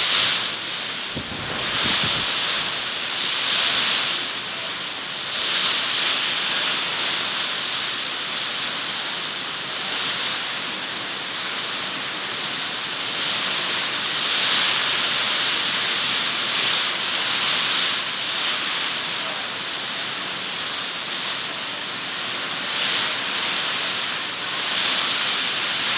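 Heavy rain pouring down in a rainstorm: a steady hiss that swells and eases every few seconds.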